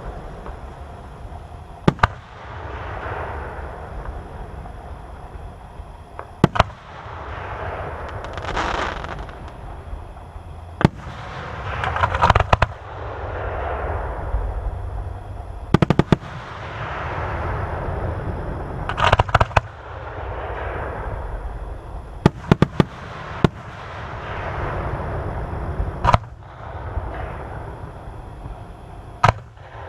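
Aerial fireworks shells bursting with sharp bangs every few seconds, some in quick clusters of several. Each bang is followed by a noisy tail that fades over a couple of seconds, over a steady low rumble.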